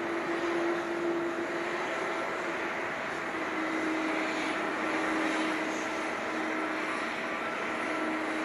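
Boeing 747-400F freighter's jet engines running: a steady rush with a held low hum that drops a little in pitch about three seconds in.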